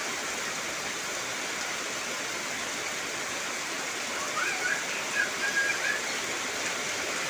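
Heavy rain falling steadily on trees and foliage, an even hiss. A few short high chirping calls cut through it about four to six seconds in.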